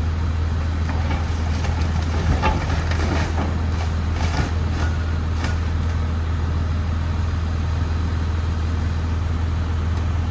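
Truck engine running with a steady low drone, with a few knocks and rattles about two to five seconds in.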